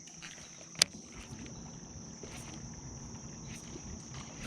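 Steady high-pitched insect chirring from crickets or similar insects, with a single sharp click about a second in.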